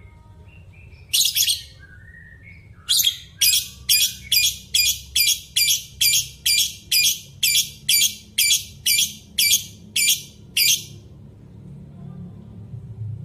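A bird giving short harsh calls: two about a second in, then a long run at about two a second that stops near the end, over a steady low rumble.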